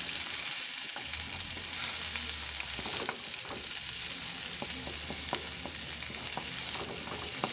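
Chopped onion and garlic sizzling in hot oil in a metal wok, stirred, with short scrapes and taps of the utensil against the pan now and then.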